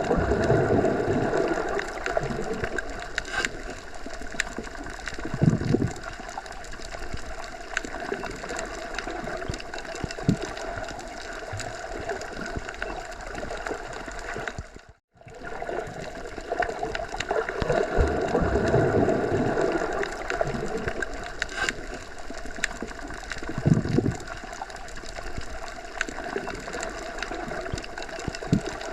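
Wind blowing through forest trees, a steady rushing that swells in gusts about a second in and again a little past halfway. A brief drop-out comes about halfway through, and the same stretch of wind then plays again.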